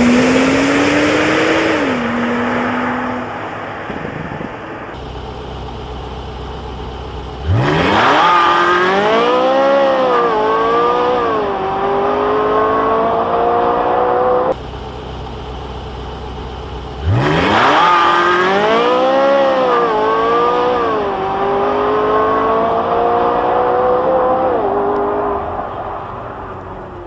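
A car engine accelerating hard through the gears, its pitch climbing quickly, dropping at each upshift and climbing again. The same run is heard twice, a few seconds after the end of another engine sound.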